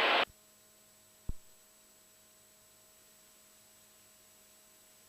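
Near silence on a headset intercom feed: a short hiss cuts off just after the start, there is a single click about a second in, and then only a faint steady electrical hum remains.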